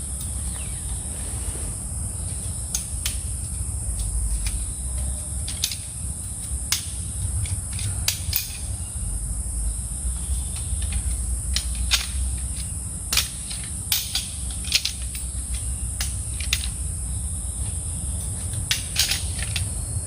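Steady high-pitched insect chorus, with scattered sharp clicks and knocks at irregular moments and a low rumble underneath.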